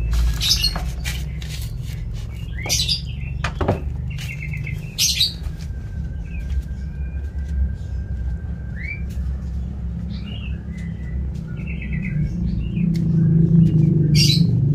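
Small birds chirping: short high chirps scattered throughout, with a couple of brief trills, over a steady low rumble that grows louder near the end.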